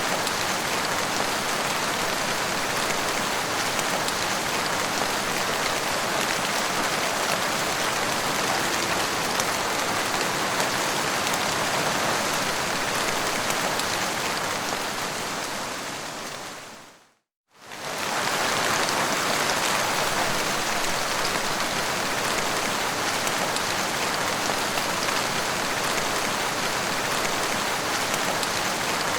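Steady rainfall, an even dense hiss of rain. A little over halfway through it fades out to a brief moment of silence, then quickly returns at the same strength.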